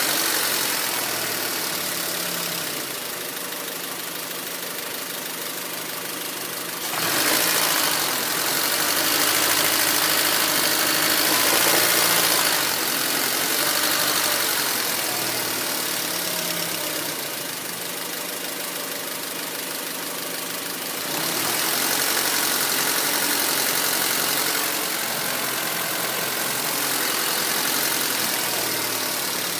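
2004 Honda Civic LX's 1.7-litre four-cylinder engine idling, its pitch and loudness wavering and swelling up for several seconds at a time: a rough, low idle that the owner suspects comes from a failing oxygen sensor.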